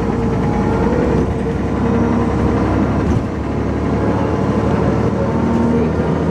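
Dennis Arrow double-decker bus engine running continuously, its pitch shifting up and down, with a brief dip in loudness about three seconds in.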